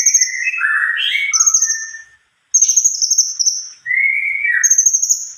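Cungkok songbird singing without letup in long rolling phrases: high, rapid trills repeated again and again over lower gliding whistled notes, with one short break a little over two seconds in.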